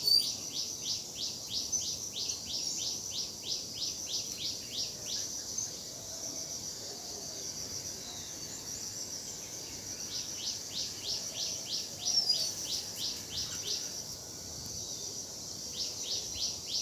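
Birds calling: runs of quick, evenly repeated high notes, about four a second, that stop for a few seconds and start again twice, with a few higher single chirps over them.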